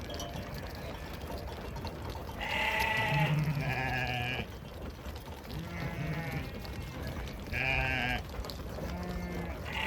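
Sheep bleating: about five separate calls, each under a second long, with short gaps between them.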